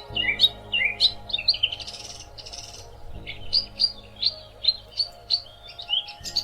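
Songbirds chirping and twittering in quick runs of short, high notes, with a brief lull partway through. A soft, steady musical drone lies underneath.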